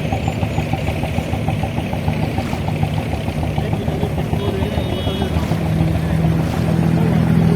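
Abra water taxi's diesel engine idling with a quick, even knock, then running harder and louder from about five and a half seconds in as the boat pulls away.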